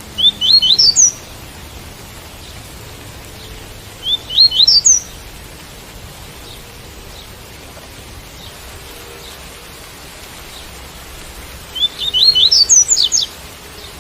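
Double-collared seedeater (coleiro) singing its tui-tui song. There are three short phrases of quick rising notes, the last one longer, over a steady hiss of rain.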